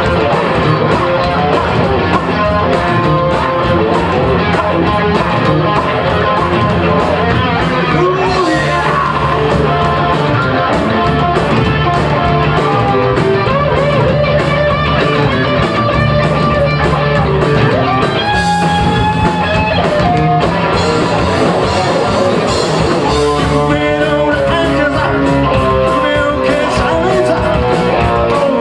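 Live rock band playing a fast number: electric guitars, bass and drums, with singing over them.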